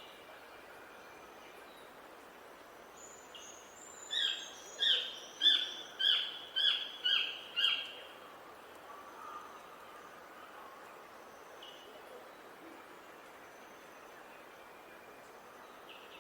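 A bird calling a run of seven loud, clear notes, about two a second, each sliding down in pitch, over faint distant chirps and a steady outdoor hiss.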